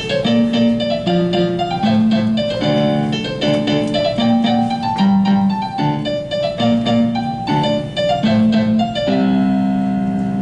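Solo piano playing a fast, rhythmic passage of repeated notes. It settles on a held chord about nine seconds in.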